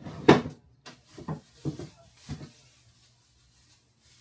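Kitchen handling noises: a loud thump just after the start, then three lighter knocks over the next two seconds, as items are set down and moved on the counter.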